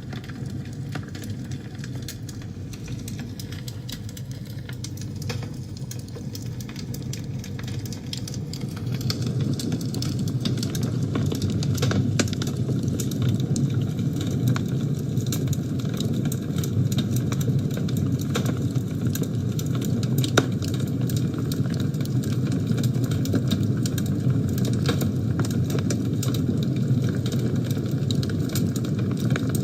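Wood fire burning in a fireplace: a steady low roar with frequent sharp crackles and pops. It grows a little louder about a third of the way in.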